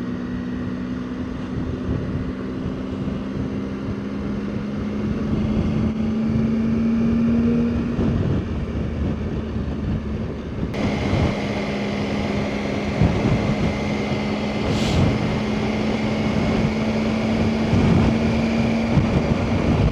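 Motorcycle engine running under way, with wind noise over the microphone. The engine note rises a little between about four and eight seconds in, then holds steady.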